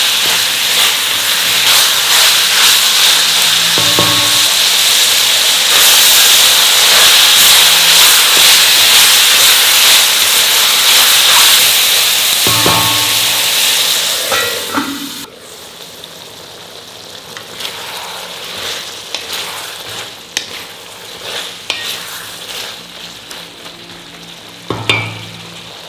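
Chicken pieces sizzling loudly in hot oil in a kadai while a spatula stirs them, with a few knocks of the spatula against the pan. About fifteen seconds in the sizzle falls away abruptly to a much quieter simmer with occasional small scrapes and clicks.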